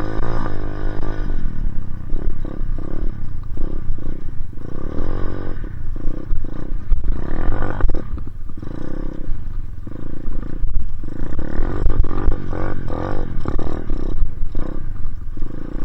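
Dirt bike engine revving up and down again and again as it is ridden, the pitch rising and falling with each blip of the throttle.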